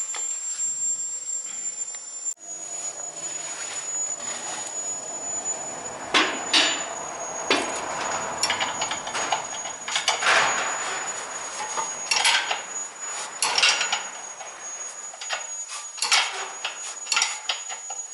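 Irregular knocks and clanks of hand tools being worked, several sharp strikes among them, with a faint steady high-pitched whine behind.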